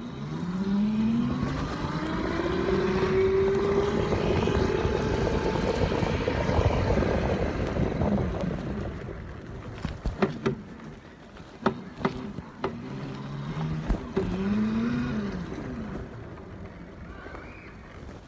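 Electric dirt bike's motor whine rising in pitch as it pulls away and gathers speed, with wind and riding noise over it. A few sharp knocks come midway, and near the end the whine rises and falls again briefly.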